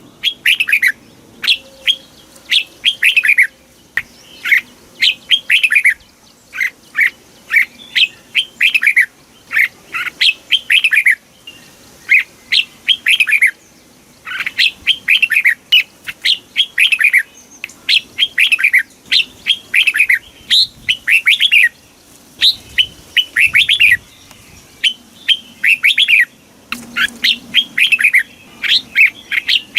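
Red-whiskered bulbul singing: short, quick phrases of clear notes that slide downward, repeated again and again with brief pauses between them.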